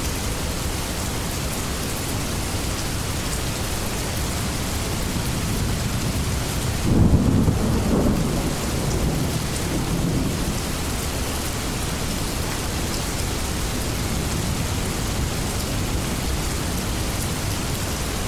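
Steady rain falling on leaves, with a low rumble of thunder about a third of the way through that swells suddenly and fades over a few seconds.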